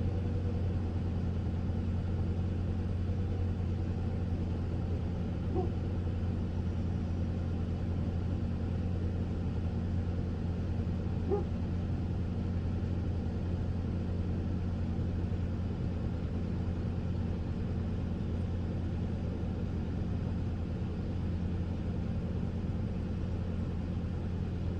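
2001 Ford Ranger engine idling steadily, an even low hum, during a misfire diagnosis.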